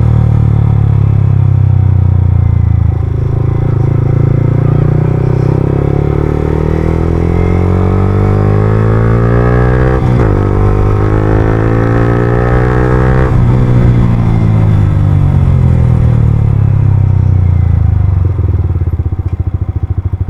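Yamaha R15M's 155 cc single-cylinder engine, heard through an Akrapovic full-system exhaust while riding. The revs climb, break briefly for a gear change about halfway, then climb again. From about two-thirds of the way in the revs fall away and settle low near the end.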